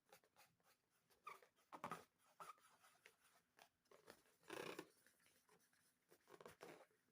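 Faint, irregular squishing and rustling of slime and rubber balloons being handled and worked by hand, with a slightly longer squelch about four and a half seconds in.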